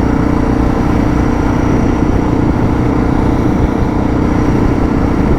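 Suzuki DR650's single-cylinder engine running at a steady cruise while riding on gravel, mixed with wind and tyre noise.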